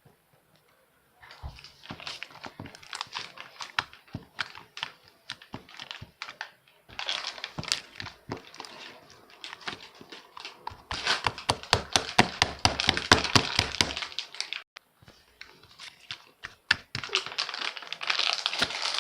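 A plastic bag or packet being torn open and crinkled: dense runs of crackles in several spells. The loudest spell comes about two-thirds of the way through, after a short lull.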